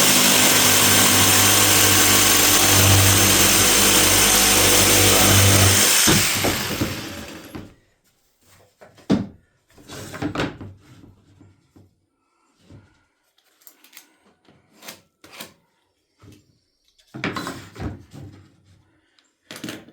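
Jigsaw cutting through a piece of wooden trim for about six seconds, then winding down and stopping. Scattered knocks and clicks follow as the wood is handled.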